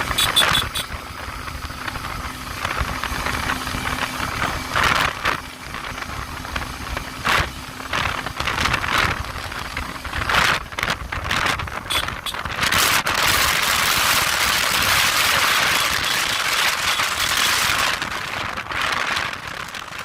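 Motorcycle riding on the road, with wind rushing over the microphone and scattered knocks. A steady engine hum drops out about halfway through, and a loud rushing noise then holds for several seconds.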